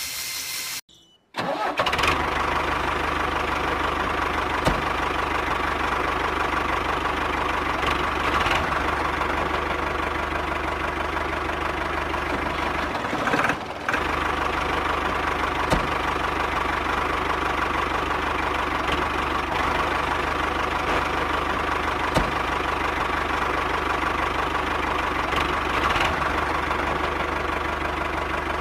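A motor running steadily, starting just after a sudden cut about a second in, with a brief break about 13 seconds in.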